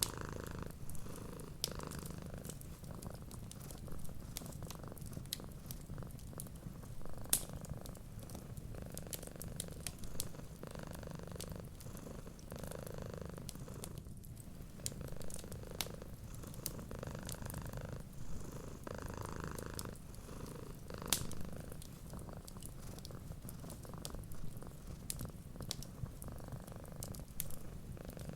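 Domestic cat purring steadily, a low rumble swelling in slow cycles, with scattered sharp crackles and pops of a wood fire, a couple of them louder.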